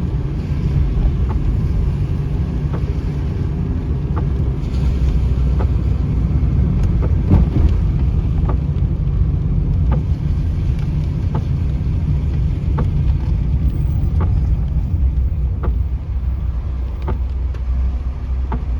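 Steady low rumble of a vehicle, with irregular light ticks scattered through it.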